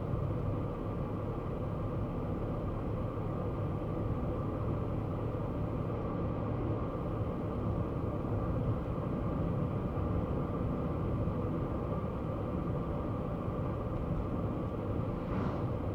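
Kei car with a small 660 cc engine driving at a steady pace: an even engine and road rumble with a low steady drone.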